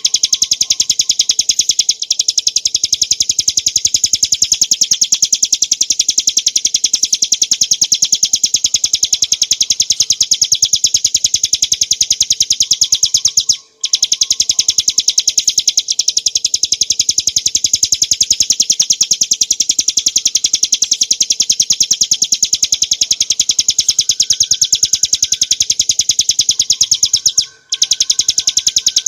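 Bar-winged prinia (ciblek gunung) singing a long run of rapid, high, chattering notes, broken by two very short pauses.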